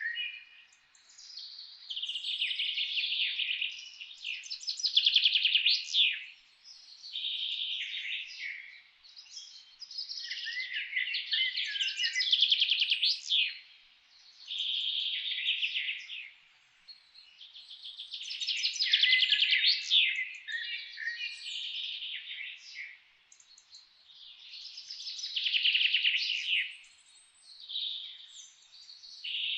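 Songbird song: phrases of fast trills and whistles, each a second or two long, with a new phrase every two to three seconds.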